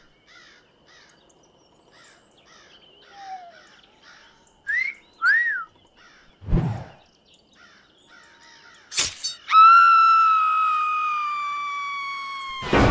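Cartoon sound effects over faint rhythmic chirping: a two-note wolf whistle about five seconds in and a low thud a little later. Then a sharp burst and a loud, long, high scream that slowly sinks in pitch and cuts off near the end.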